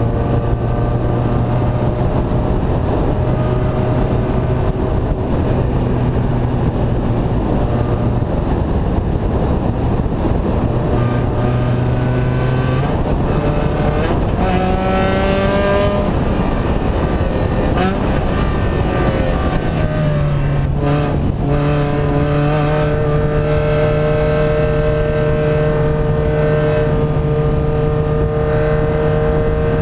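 Engine of a vehicle with an open, unsilenced exhaust running under way. The engine pitch holds steady, climbs with a couple of shifts partway through, then settles at a higher steady speed from about two-thirds of the way in.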